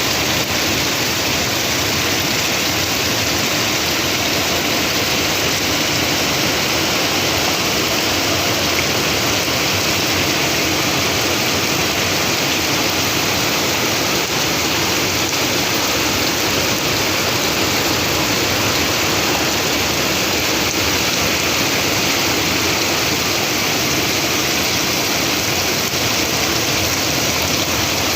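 Heavy rain pouring down, a dense steady hiss that never lets up.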